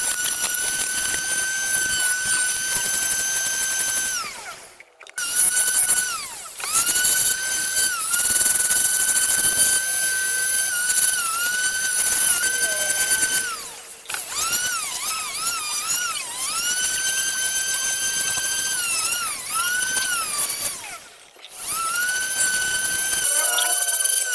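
High-speed rotary carving tool whining at a steady high pitch that dips and recovers again and again as the bit bites into the machete handle being carved. It winds down and cuts out briefly a few times, then spins back up.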